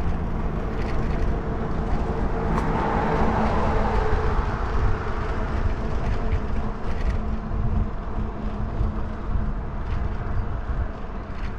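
Wind rushing over the microphone and the fat tires of a Velotric Nomad e-bike rolling along during a ride, a steady low rumble. A faint hum swells a little about two to four seconds in.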